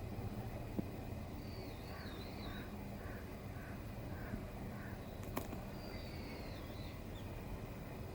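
Wild birds calling over a steady low background hum: a run of about six short repeated calls, with high warbling song twice. A single sharp click about five seconds in.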